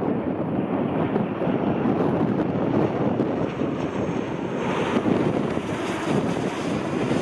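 Wind buffeting the microphone: a loud, steady, ragged rushing noise, briefly brighter and hissier about five seconds in.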